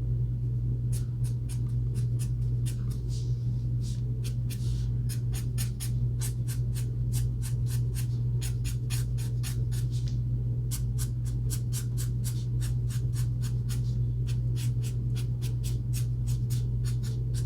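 Ohuhu alcohol marker tip stroking quickly back and forth on paper, about three to four short strokes a second with a few brief pauses, over a steady low hum.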